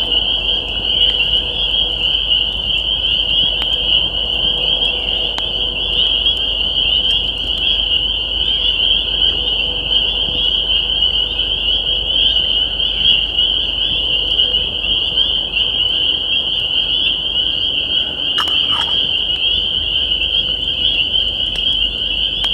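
Dense chorus of spring peepers: many overlapping high, shrill peeps merging into one continuous ringing sound.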